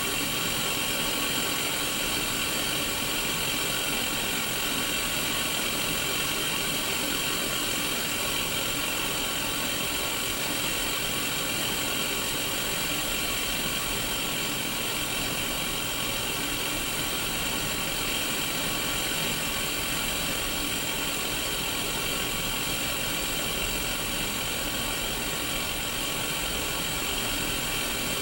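Steady static hiss from a Sony Mega Watchman mini black-and-white CRT TV showing white noise, even and unbroken, with a few faint steady tones running through it.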